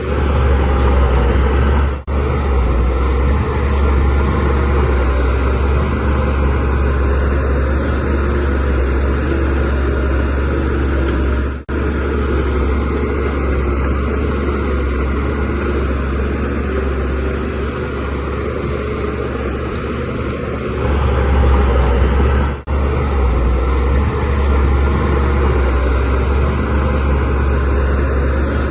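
Diesel engine of a Shantui DH17C3 Pro crawler bulldozer running steadily, a little louder for a moment about 21 seconds in. The sound cuts out very briefly three times, about 2, 12 and 23 seconds in.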